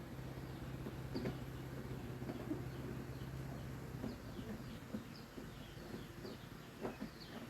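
A low steady hum that stops about four seconds in, under a few light clicks and knocks, with faint bird chirps in the background.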